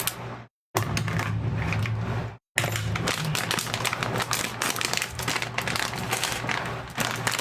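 Small plastic chip bag crinkling and crackling as it is torn open, a dense run of crackles over a low steady hum. The sound cuts to dead silence twice in the first few seconds.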